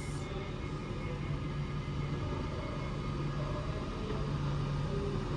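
Class 390 Pendolino electric train standing at the platform, a steady low hum from its onboard equipment while its doors are closing before departure. A brief hiss sounds right at the start.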